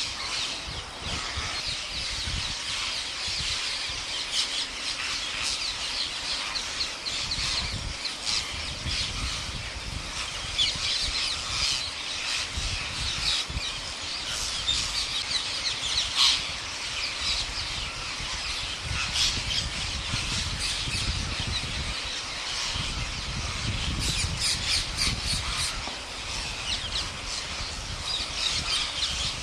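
A large flock of parrots calling all at once, a dense unbroken chorus of shrill screeches. A low rumbling comes and goes beneath it.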